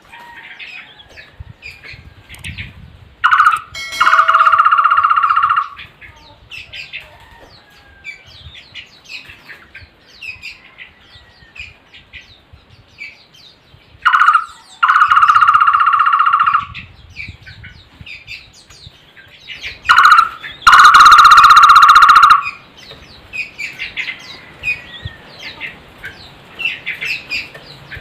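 Takur (barbet) calling three times: each call is a short note followed by a fast, steady trill lasting about a second and a half. Faint high chirps of other small birds come between the calls.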